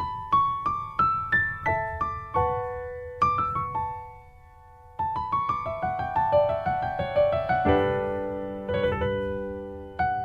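Background music: a piano playing a gentle melody of single notes and chords, with a short pause partway through.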